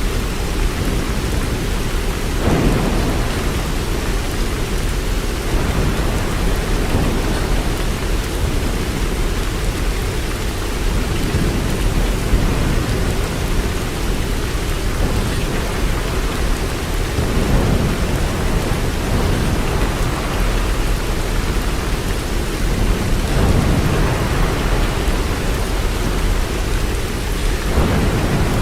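Steady heavy rain, an even wash of noise, with a low rumble swelling up and fading several times.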